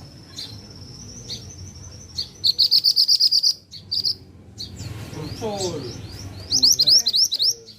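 Mantenan songbird singing a loud, chirpy song. It opens with a held high whistle, moves into a fast trill of about ten notes, and near the end gives a quick run of rising whistles.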